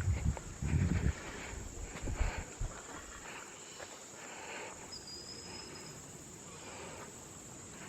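Insects drone in a steady, high, even buzz, with several low thuds during the first three seconds and a short, faint, high whistle about five seconds in.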